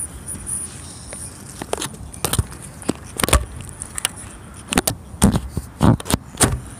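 A series of irregular knocks and scuffs, most of them in the second half.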